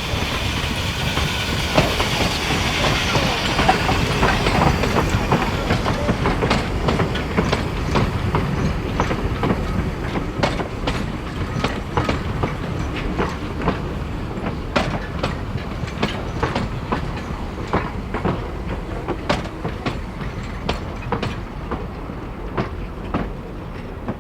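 A vintage train hauled by a New Zealand Ww-class steam tank locomotive runs past. A loud rushing noise in the first few seconds gives way to the carriages' wheels clicking over the rail joints in irregular clacks, slowly fading as the train moves away.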